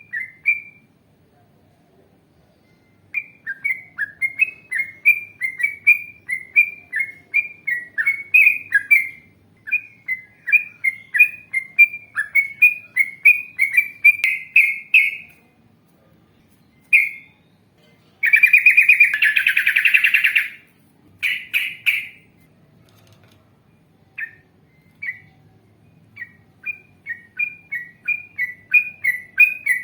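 Yellow-vented bulbul singing: long runs of quick repeated chirping notes, about two or three a second, that grow louder through the first half. About two-thirds of the way through comes a loud rapid chattering trill, then a pause, and the note runs start again near the end.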